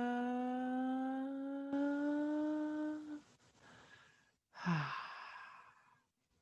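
A woman's voice holds one long vocal tone that rises slowly in pitch, like a gentle siren: the rising sound of a vocal tension-release exercise. It stops about three seconds in, and a breathy sigh with a short falling pitch follows about a second and a half later.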